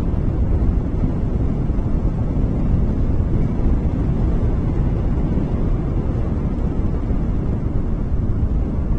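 Wind buffeting the microphone, a steady low rumble with no bird calls.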